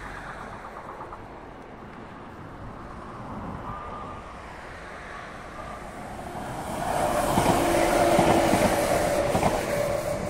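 Passenger multiple-unit train passing over a level crossing: its running noise swells from about six seconds in to a peak with a steady whine, then fades near the end.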